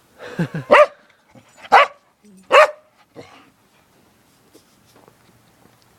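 A dog barking three times in quick succession in the first three seconds, then going quiet.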